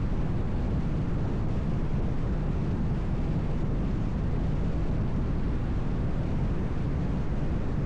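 Steady road noise of a car in motion: tyres on the pavement and a low running hum, unchanging throughout.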